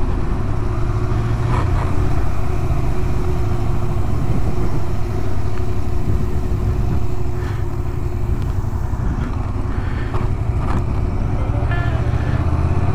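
Yamaha MT-07 motorcycle's parallel-twin engine running steadily.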